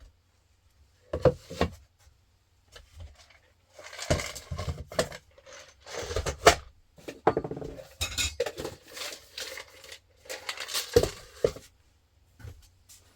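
Hard objects being handled: irregular knocks and clinks, with longer bursts of clatter around the middle and again near the end.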